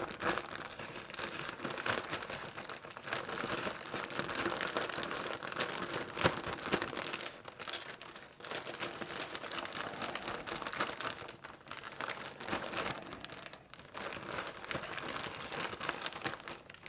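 Plastic crinkling and rustling, irregular with brief lulls, as cubed stew meat is handled and coated in seasoned flour.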